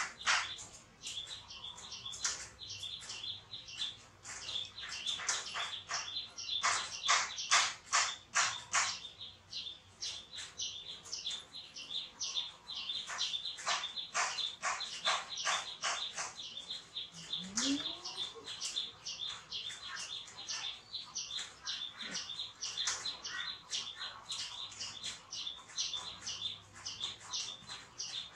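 Small birds chirping rapidly: runs of short, high-pitched chirps, several a second, coming and going throughout. A brief low rising call sounds a little past halfway.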